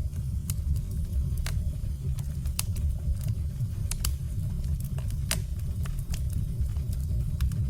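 Firewood burning, crackling with scattered sharp pops and snaps at irregular intervals over a steady low rumble.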